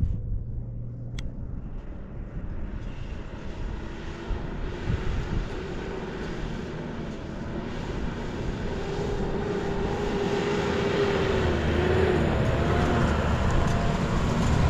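A motor vehicle's engine running, growing gradually louder, with a low hum and a wavering tone in the second half.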